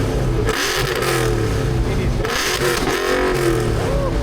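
Car engines revving, rising and falling in pitch, with two short stretches of louder hissing exhaust noise.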